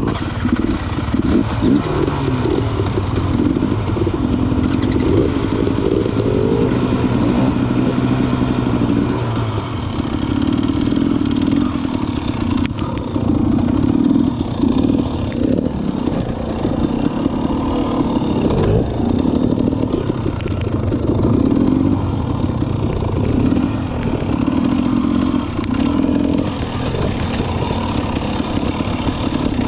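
Two-stroke dirt bike engine running on a trail ride, its pitch rising and falling over and over as the throttle is opened and closed, with some rattling from the bike.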